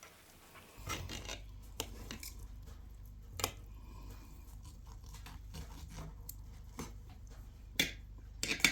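Scraping and rubbing with scattered sharp clicks, as of a utensil working food in a pan or dish; the loudest clicks come near the end. A low steady hum runs underneath from about a second in.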